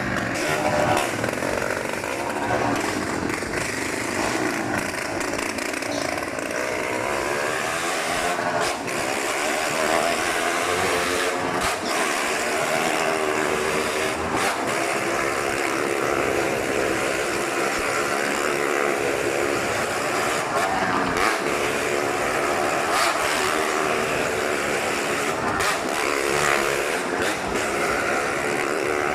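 Motorcycle engine running hard and revving on a Wall of Death, its pitch rising and falling over and over as it circles the wall.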